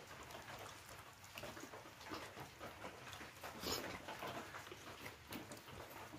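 Close-miked eating sounds: a person chewing and smacking their lips over a meal of khichdi, with many small wet mouth clicks and one sharper, louder sound about three and a half seconds in.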